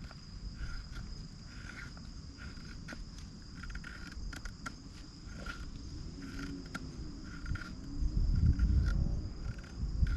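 Insects chirping in a steady, regular pulse over a constant high trill, with a low rumble that grows louder near the end.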